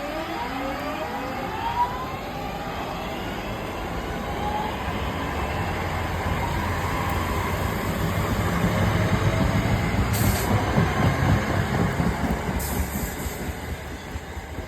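Northern Class 323 electric multiple unit pulling away: its traction motor whine climbs in pitch as it accelerates, then the wheels rumble on the rails, growing louder as the train passes and fading near the end.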